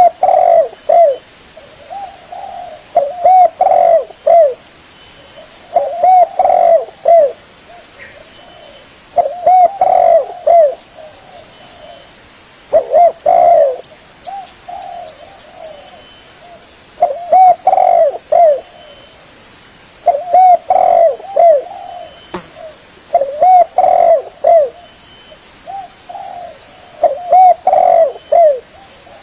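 Spotted dove cooing: a loud phrase of several quick, curved coos, repeated about every three to four seconds.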